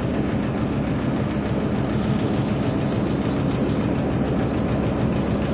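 Canal narrowboat's inboard engine running steadily under way, a constant low drone. A few faint high chirps sound about halfway through.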